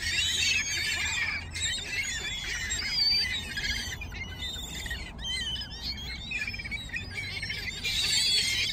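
A flock of gulls crowding in for bread, calling over one another with many short, high overlapping calls.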